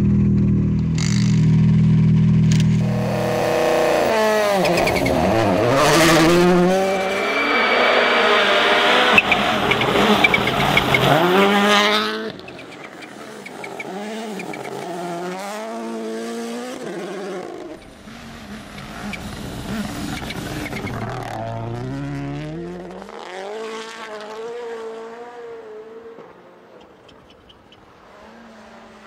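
Rally cars driven hard: engine revs climbing and dropping through quick gear changes, loud and close for about the first twelve seconds. Then a sudden cut to cars heard further off, their revs rising and falling more faintly and fading near the end.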